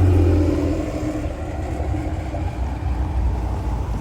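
A car engine running close by with a deep, pitched rumble, loudest in the first half second and then easing off to a lower, steady rumble.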